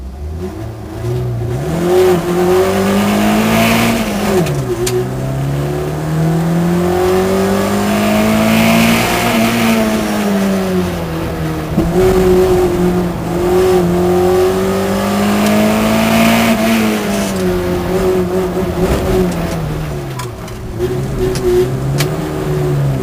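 Competition car's engine at full throttle heard from inside the cabin: the revs climb steadily, then drop away as the car eases off, about three times over.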